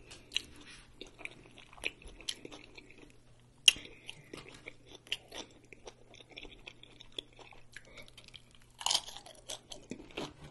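Close-up chewing and crunching of tortilla chips, a string of crisp bites and chews with a sharp loud crunch a few seconds in and a burst of crunching near the end.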